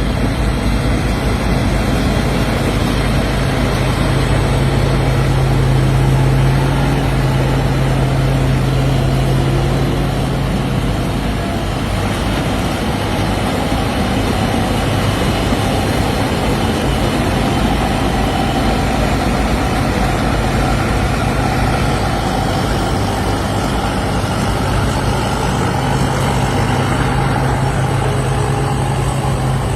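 Rice combine harvester's diesel engine running steadily under load, a loud, even low hum with a spread of machinery noise above it.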